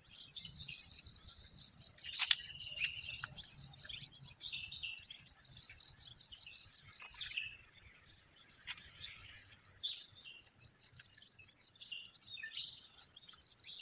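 Forest chorus of cicadas: a steady high shrill with a fast pulsing trill underneath. Birds call over it throughout with short, falling chirps.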